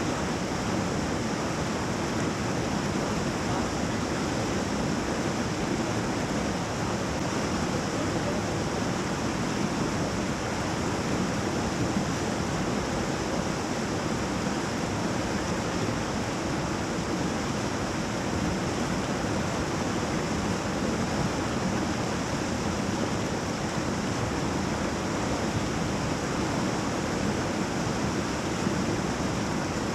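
Whitewater of a river rapid rushing steadily, an unbroken hiss of moving water with no separate splashes.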